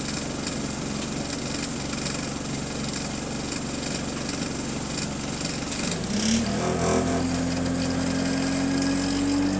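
Single-deck bus's diesel engine idling, then picking up about six seconds in as the bus pulls away, its note rising gradually, with a short click just as it picks up.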